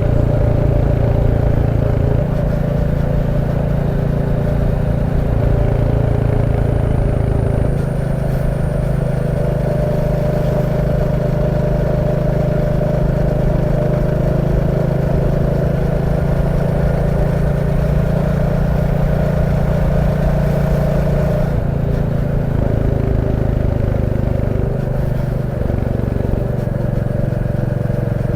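Royal Enfield Classic 350's single-cylinder engine and exhaust running steadily under way, with slight changes in pitch about eight and twenty-one seconds in.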